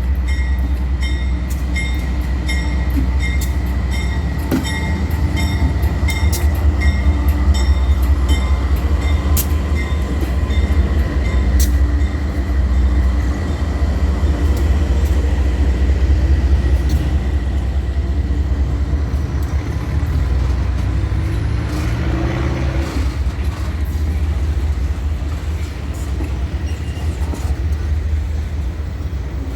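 Heavy freight train of loaded wagons rolling past at close range: a loud, steady low rumble with a regular rhythmic clacking of the wheels for the first twelve seconds or so, and a shift in the rumble about two-thirds of the way through.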